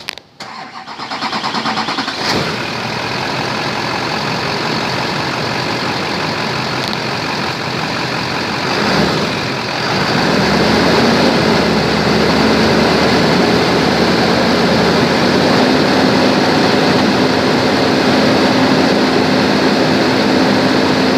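2003 Chevrolet Silverado 2500's V8 engine cranking and starting about a second in, then idling. About nine seconds in its note shifts briefly, and it then settles into a steadier, slightly louder idle.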